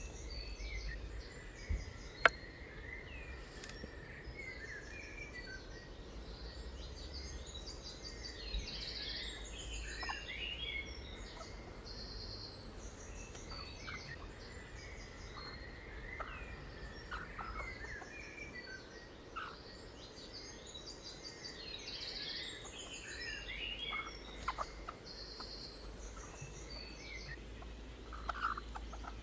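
Several wild birds chirping and calling over one another, with short chirps and fast runs of repeated high notes, over a steady low rumble and a few sharp clicks.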